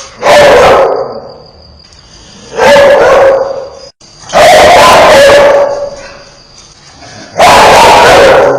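Dog barking fiercely, four loud bouts of barking about every two to three seconds, each lasting about a second.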